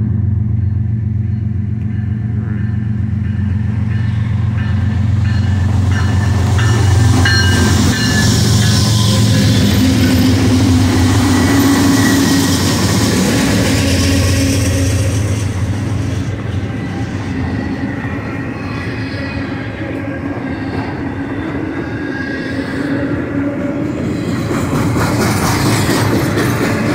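A train rolling past close by. A steady deep drone of diesel locomotive engines fills roughly the first half and then fades, leaving the rumble and clatter of wheels on the rails, with a few brief thin wheel squeals.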